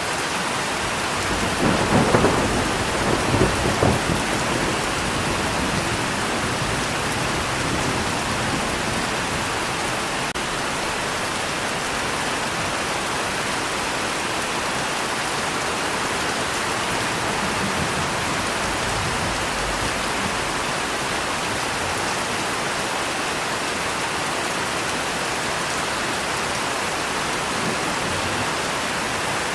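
Steady heavy rain with a rumble of thunder a couple of seconds in, the loudest moment, followed by fainter low rumbles.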